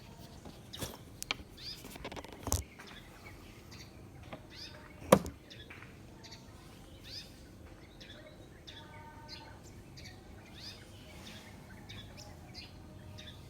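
Small birds chirping: short, quick, falling chirps repeated throughout. A few sharp clicks or knocks cut across them in the first half, the loudest about five seconds in.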